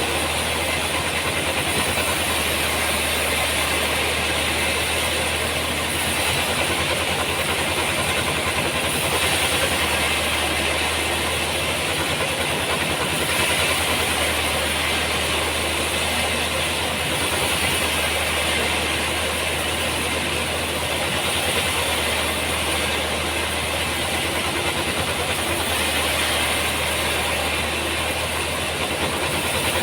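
Sawmill machinery running steadily: a continuous hiss over a constant low hum.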